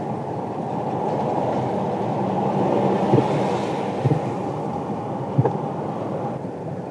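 Steady road and engine rumble inside a moving car's cabin, with a few brief knocks near the middle.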